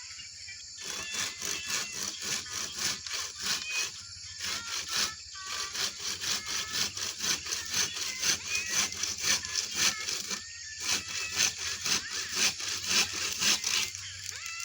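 Hand saw cutting wood with quick back-and-forth strokes, about three a second, broken by a few short pauses.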